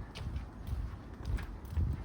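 Footsteps while walking: low thumps at about walking pace, with a few light clicks.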